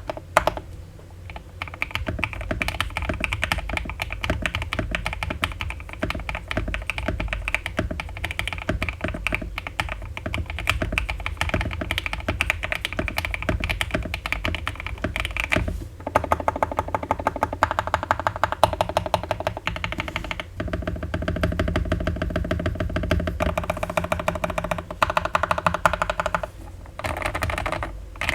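BBOX60 Kon Momo 60% mechanical keyboard being typed on continuously: lubed KTT Strawberry linear switches on a carbon fiber plate with Poron switch pad, KAT-profile PBT keycaps, ABS plastic case. A dense, fast stream of keystrokes with a few brief breaks.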